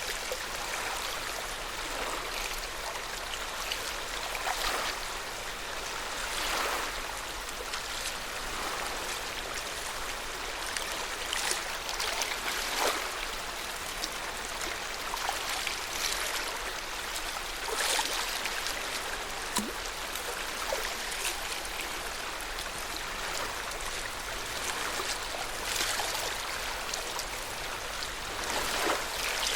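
Lake water lapping in small waves, a steady wash with a splashy swell every couple of seconds.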